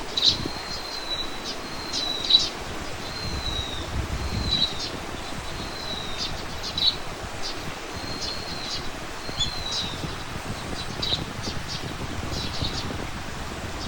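Songbirds singing: a series of thin, high whistled notes, each under a second long and some gently falling in pitch, repeated about once a second and interspersed with short sharp chirps. A low rumble runs underneath, strongest in the first few seconds.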